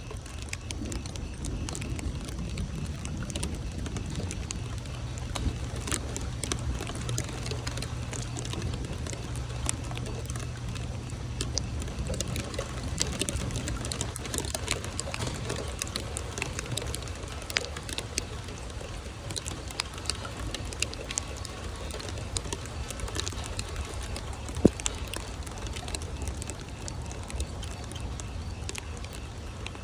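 Rain falling, with many scattered sharp ticks of drops striking over a steady low rumble. The rumble swells for a stretch in the first half, and one harder tap stands out about three-quarters of the way through.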